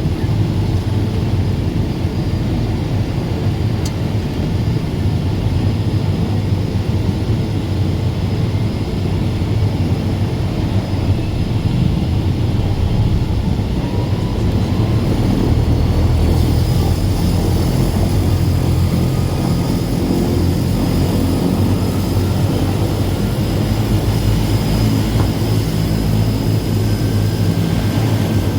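DHC-6 Twin Otter's PT6A turboprop engines running with a steady low drone; about halfway through a high whine joins in and the sound grows a little louder.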